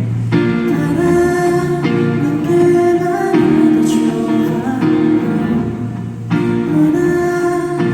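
A pop song performed live by a band with guitar, with singing over it.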